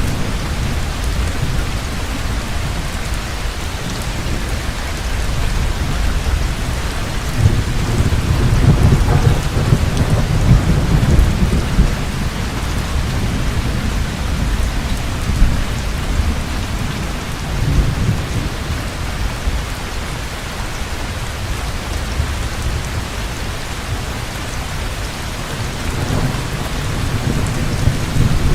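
Heavy, steady rain with thunder rumbling underneath, swelling up a few times and dying back.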